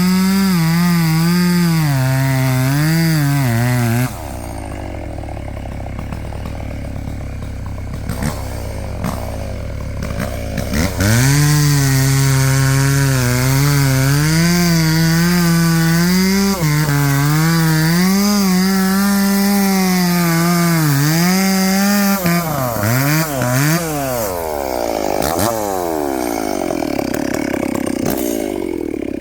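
An engine working under load, its pitch repeatedly rising and dipping as the revs change. It drops back about four seconds in, picks up loud again after about eleven seconds, and ends in sweeping rises and falls of revs.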